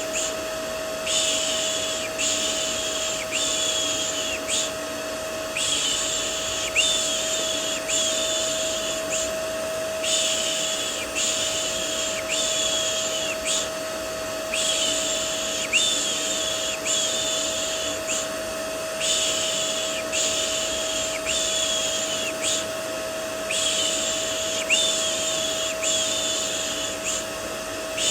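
A vacuum cleaner runs steadily with a constant hum. Over it, a person repeats a soft "shh" shush about once a second, in runs of four or five separated by short pauses: a white-noise mix for soothing a baby to sleep.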